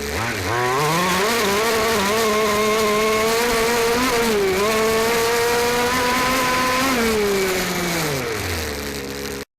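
Small 29cc two-stroke engine of a 5th-scale RC truck revving up about half a second in and held at high speed for several seconds, then easing back to idle. The sound cuts off just before the end.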